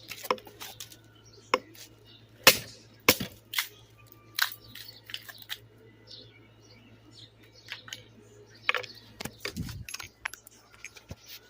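A bamboo stalk slammed against a chair armrest and breaking, giving a series of sharp cracks and snaps; the two loudest come about two and a half and three seconds in, with smaller cracks and clicks of the splintered pieces scattered after.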